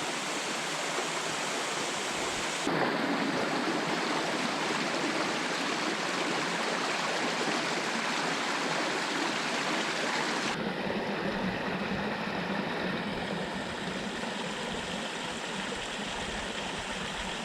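Steady rushing of a small creek's running water. The sound shifts abruptly about three seconds in and again about ten seconds in.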